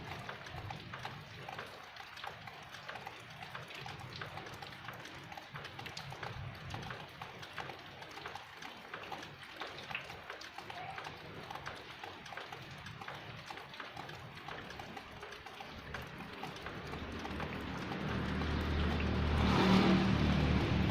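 Steady outdoor street ambience with scattered small clicks and knocks, then a motor vehicle's engine growing louder toward the end and peaking as it passes close by.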